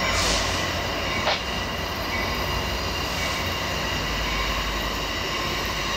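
Diesel passenger locomotive and its cars rolling slowly around a curve: a steady low engine rumble under a thin, steady squeal of wheels on the rails. A brief hiss comes about a third of a second in, and a single sharp clank about a second later.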